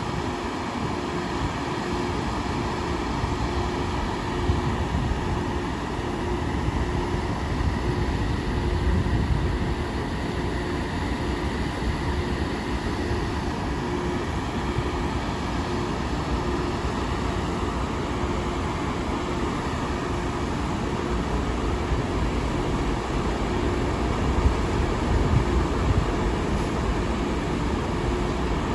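Long Island Rail Road train running past, a steady rumble with a steady hum throughout and a few louder knocks near the end.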